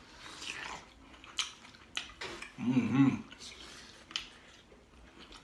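Close-up eating sounds: chewing, with scattered wet clicks and lip smacks. A short voiced sound comes about halfway.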